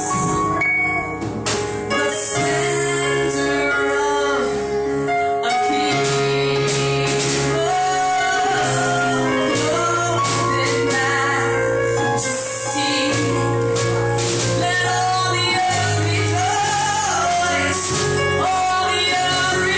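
Live gospel worship music: female and male voices singing together over a band, with sustained low bass notes and percussion.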